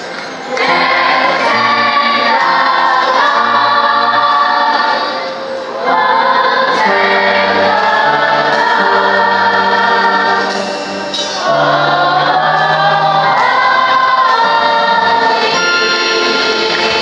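Choir singing a gospel song in phrases of long held notes, with short breaths between phrases about five and eleven seconds in.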